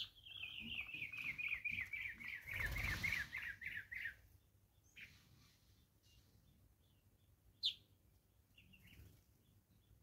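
A bird calling a fast series of short notes, about five a second, falling steadily in pitch for about four seconds, then a single sharp high chirp a few seconds later. A brief rush of noise passes midway through the call series.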